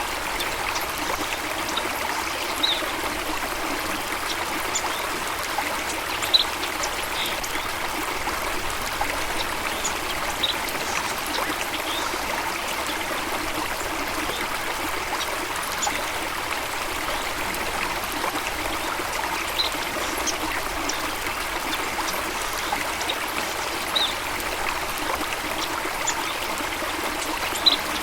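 Steady running water of a stream, trickling evenly, with brief high-pitched sounds every few seconds.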